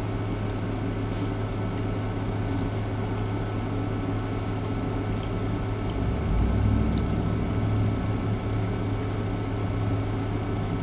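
Steady low mechanical hum inside a truck cab, swelling slightly about six seconds in, with a few faint clicks over it.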